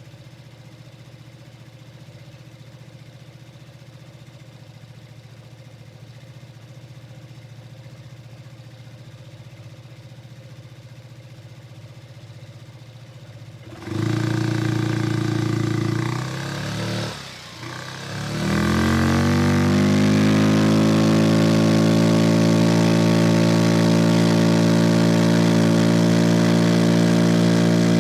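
Vespa Sprint 150 scooter's single-cylinder four-stroke engine idling quietly, then throttled open about halfway in. The revs jump, dip briefly, then climb and hold steady as the Malossi-kitted CVT pulls away, with a rush of air noise once under way.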